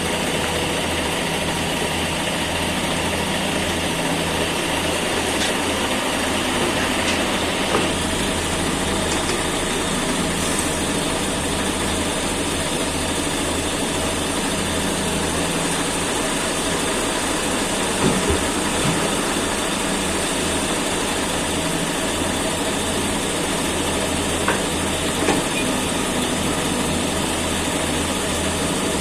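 Caterpillar excavator's diesel engine running steadily, with a few brief knocks.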